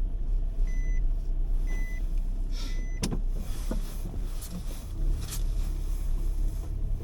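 An electronic beeper sounds three short high beeps about a second apart, then stops; a sharp click follows about three seconds in, with a few fainter clicks later. A steady low rumble of wind on the microphone runs underneath.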